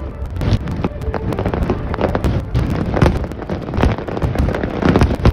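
Aerial fireworks shells bursting in quick succession: a dense, unbroken run of bangs and crackles.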